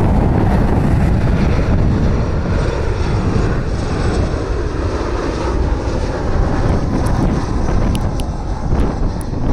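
Jet engines of a Boeing 737 airliner on approach: a loud, steady rush of engine noise.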